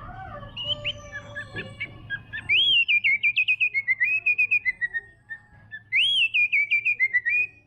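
White-rumped shama singing: two loud phrases, about 2.5 and 6 seconds in, each opening with a rising-and-falling whistle that breaks into a fast run of short notes, with quieter chirps before them.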